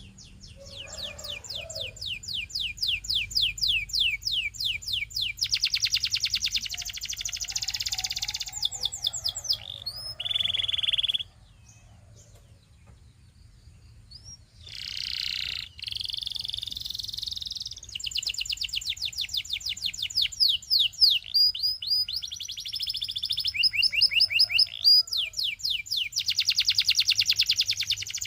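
Domestic canary singing: long fast trills of quickly repeated high chirps and rolling phrases, with a pause of a few seconds near the middle before the song starts again.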